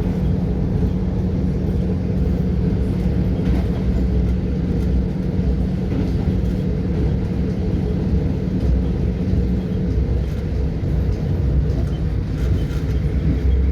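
Train running: a steady low rumble with a held hum that stops about ten seconds in.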